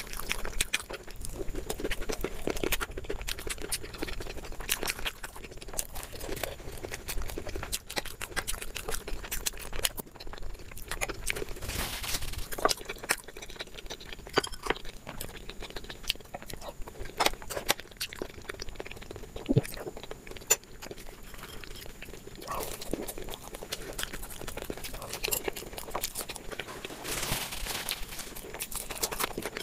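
Close-miked eating: chewing and wet mouth sounds of someone eating chickpea curry (chole) and samosas, with crunches and many small clicks throughout.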